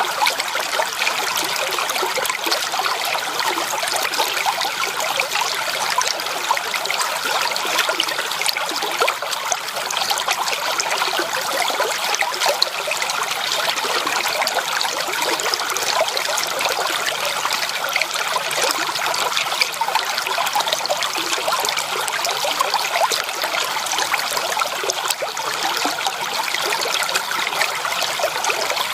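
Stream water flowing steadily, a continuous trickling rush dotted with many small splashes.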